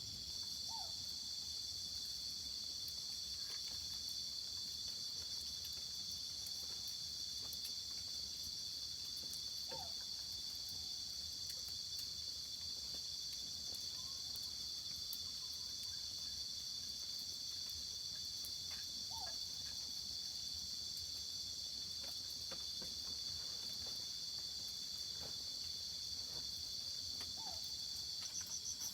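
Steady, unbroken high-pitched chorus of crickets or similar insects. A faint short call sounds about every nine seconds beneath it.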